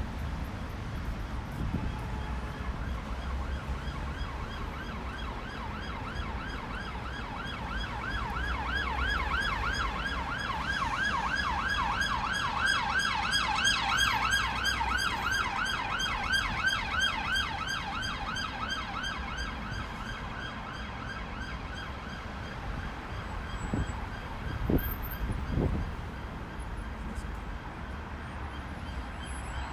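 An emergency vehicle's siren going in a fast yelp, its pitch rising and falling several times a second. It grows louder to a peak about halfway through, then fades as it passes, over the steady rumble of road traffic. A few low thumps come near the end.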